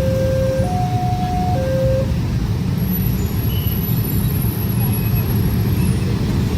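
Loud steady rumble of a train passing over a level crossing. For the first two seconds the crossing's warning signal sounds an alternating two-tone ding-dong, and from about three seconds in a thin high squeal rises over the rumble.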